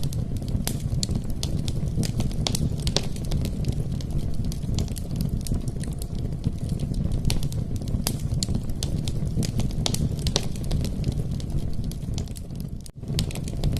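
Wood fire of burning logs crackling in a fireplace: a steady low rumble of flames under frequent sharp pops and snaps, briefly cutting out near the end.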